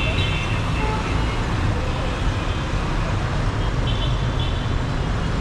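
Dense city traffic: car and bus engines running and tyres on the road in a steady, loud mix, with a short horn honk about four seconds in.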